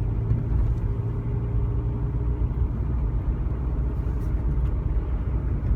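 VW Touran diesel engine idling steadily with a low, even rumble.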